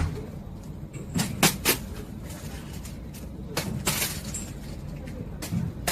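A handful of sharp knocks and clatters, a few in quick succession just over a second in and again around four seconds, over a steady low rumble.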